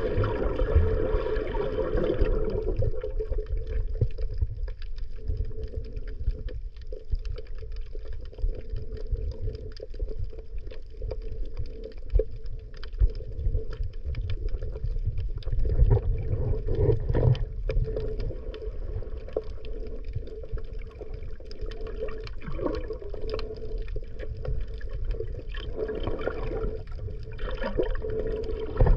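Underwater ambience: a constant low muffled rumble with scattered clicks and crackles, and a steady hum that is strongest in the first two seconds.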